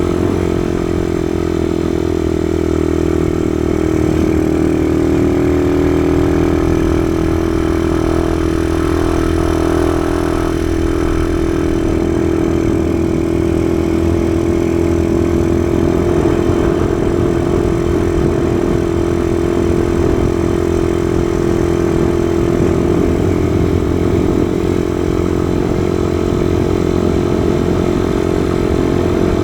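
Kawasaki KSR110's small single-cylinder four-stroke engine running at steady revs, holding a nearly constant pitch with only slight rises and dips.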